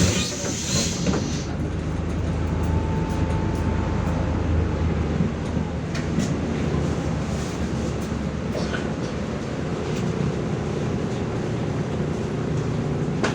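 Steady low rumble inside a MAZ-105 articulated city bus as it runs, with light rattles and clicks from the body. A hiss of air fades out in the first second or two.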